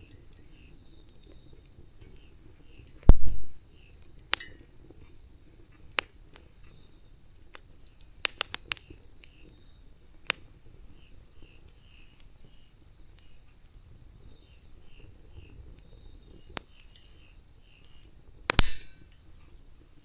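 Wood campfire burning with scattered sharp crackles and pops, a heavy thump about three seconds in and a loud crack near the end.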